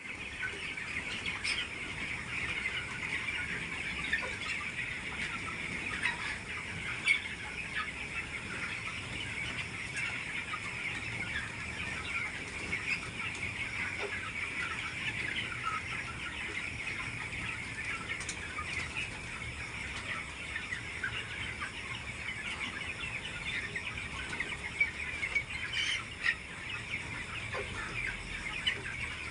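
A large flock of farmed chickens calling all at once: a dense, continuous chatter of overlapping calls, with a few louder single calls standing out now and then.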